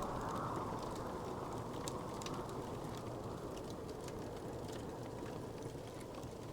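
Wood fire crackling in a fireplace: scattered small pops and snaps over a steady low rush of burning.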